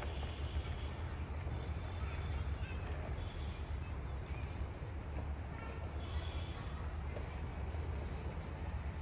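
A bird calling over and over, a short high chirp about once a second, starting about two seconds in, over a steady low rumble.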